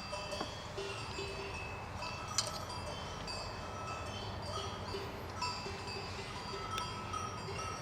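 Several small bells ringing irregularly at different pitches, their notes overlapping, with a few sharp clinks among them.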